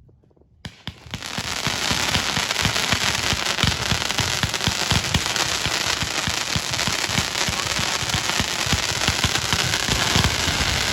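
Fireworks going off in a rapid, continuous string of pops and crackles with many low thumps. It starts abruptly under a second in and carries on without a break for about ten seconds.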